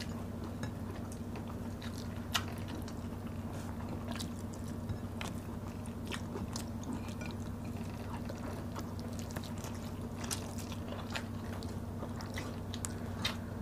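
Two people eating by hand at close range: soft chewing and scattered small wet mouth and finger clicks, over a steady low hum. One click about two seconds in stands out a little.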